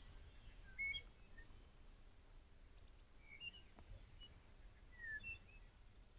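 Quiet forest ambience with a few short, scattered bird chirps over a faint low rumble.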